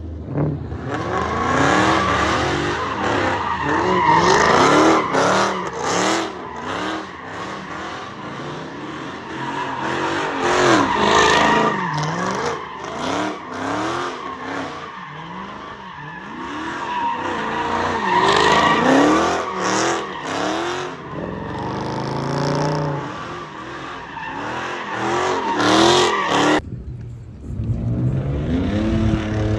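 Car engine revving up and down again and again while the tyres squeal and skid. About three seconds before the end the sound cuts off suddenly and a deeper engine takes over.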